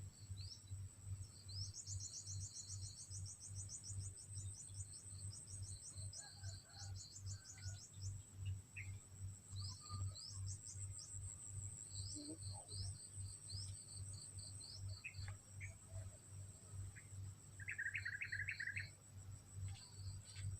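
Outdoor ambience of a steady high insect trill with small birds chirping in quick high series, and a short chattering call near the end. A low pulsing hum runs underneath.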